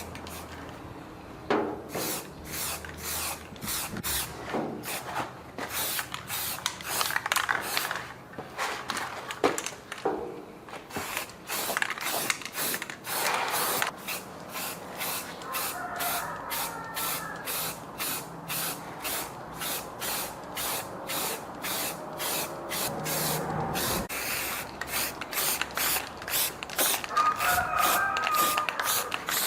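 Hand rubbing strokes on a part, like sanding or scrubbing, repeated quickly at about two to three strokes a second.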